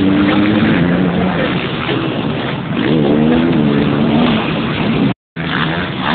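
125 cc two-stroke motocross bike engines racing, their pitch rising and falling as the riders throttle up and back off. The sound drops out completely for a moment about five seconds in.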